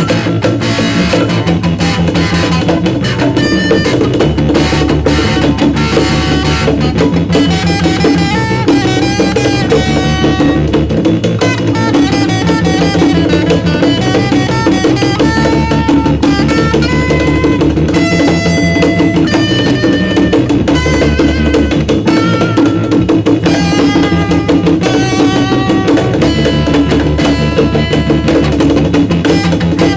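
Rock band music: a drum kit keeping a steady beat under bass and a moving melodic lead line.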